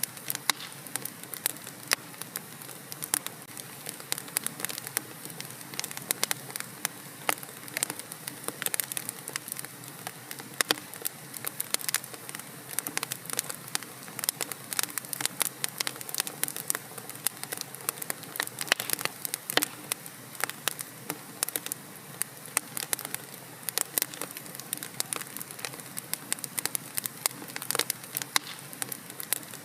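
Wood fire in a fireplace crackling and popping steadily, with dense irregular snaps over a soft hiss.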